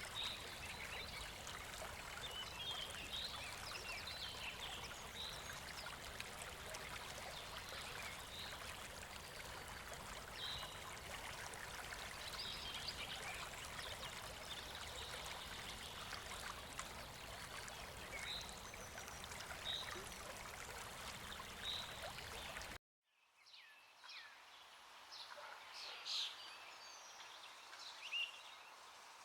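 Steady hissing noise with small scattered pops and crackles, which cuts off abruptly near the end. It gives way to quieter outdoor night ambience with short, faint chirps.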